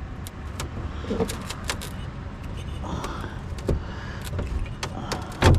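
Light metallic clinks and rattles of scrap being handled, over a low steady rumble, with one louder knock near the end.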